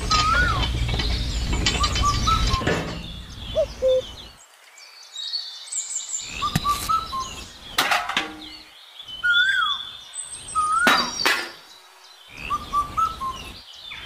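Small birds chirping and whistling in short repeated calls, with a few sharp clicks or taps scattered through and a low rumble over the first couple of seconds.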